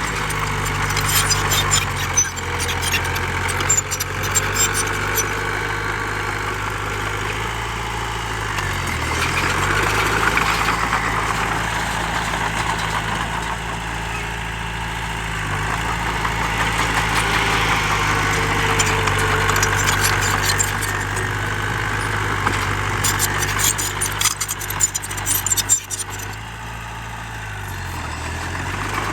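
Heavy diesel engine of earthmoving machinery running steadily, its pitch dipping briefly twice as it takes load. Spells of rattling clatter come near the start and again late on.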